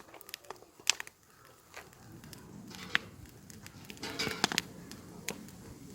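Wood campfire crackling and popping, with irregular sharp pops over a soft hiss; two loud pops come about a second in and about three seconds in, and a busier flurry of crackles follows near the end.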